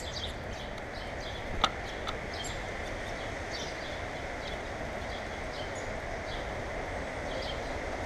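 Small birds chirping in short, high, scattered calls over a steady low background hum, with one sharp tap about a second and a half in.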